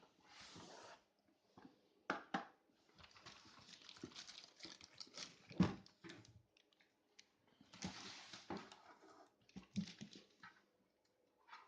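Packaging being handled during unboxing: irregular rustling and scraping of cardboard and plastic, with scattered clicks and one sharp knock about five and a half seconds in.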